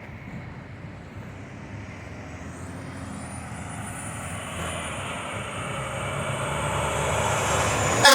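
Fire truck's diesel engine approaching, growing steadily louder, with a thin high whine coming in a couple of seconds in.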